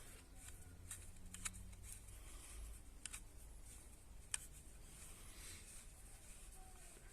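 Faint, sparse clicks and light handling noises of small parts being worked on, over a low steady hum; the sharpest click comes about four seconds in.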